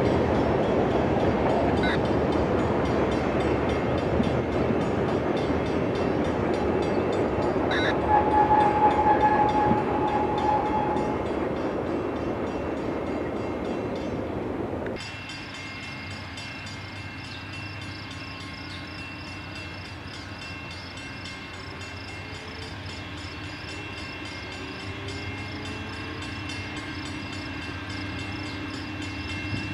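Freight train rolling past: a loud, steady rumble of cars on the rails, with a brief held high tone about eight seconds in. About halfway through, the sound cuts off abruptly to a much quieter, steady hum carrying several faint even tones.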